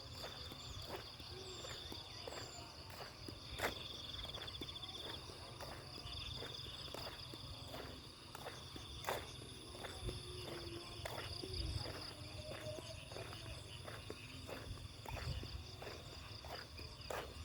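Footsteps walking at a steady pace, about two steps a second, while insects keep up a steady high-pitched trill in the background.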